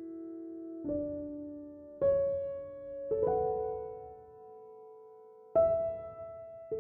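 Slow, gentle solo piano music: chords struck every one to two seconds, each left ringing and fading before the next.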